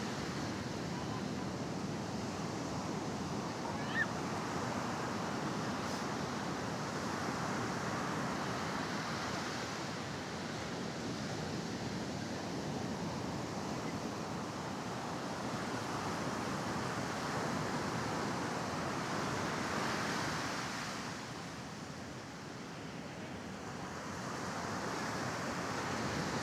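Mediterranean surf washing onto a sandy beach: a steady hiss of breaking waves that swells and eases every few seconds, with a brief lull about three-quarters of the way through.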